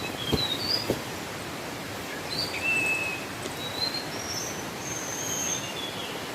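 Small birds chirping and whistling in short calls, some sliding up or down, over a steady rushing background. A couple of faint knocks come in the first second.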